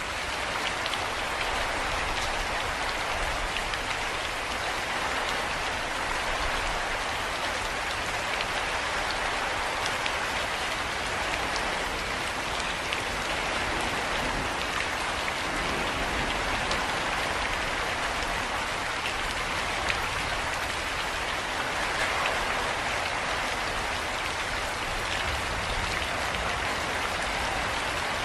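Steady rainfall, an even hiss of many drops with scattered small ticks of drops landing on a surface.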